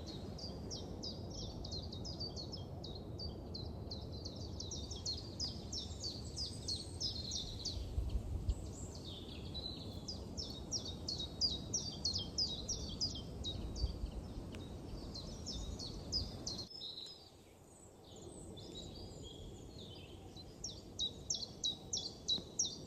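Forest birdsong: rapid series of short high chirps, several a second, from more than one bird, over a low background rumble that drops away about two-thirds of the way through.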